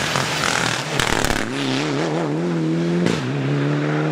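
Rally car going past at speed: engine running hard with tyre noise, a few sharp knocks about a second in, then the engine note holding at a steady pitch.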